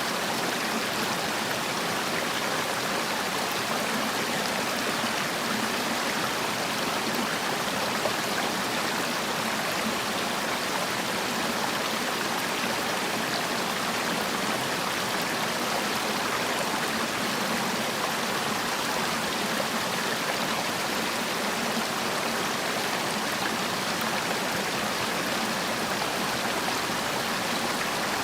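Mountain stream running steadily over rocks, a continuous rushing and splashing of flowing water.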